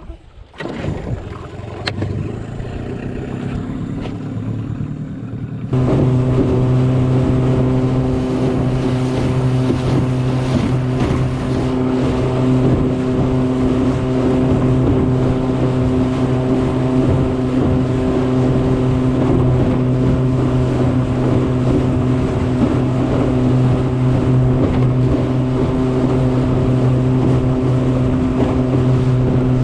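Mercury 15 hp two-stroke outboard motor on a small skiff running slow for the first few seconds, then opened up about six seconds in and running steadily at speed.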